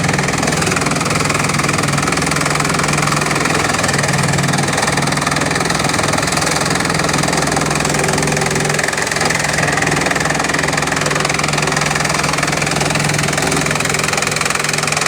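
Bamboo crushing machine running steadily as it chips bamboo, a constant loud mechanical din with a low engine-like hum.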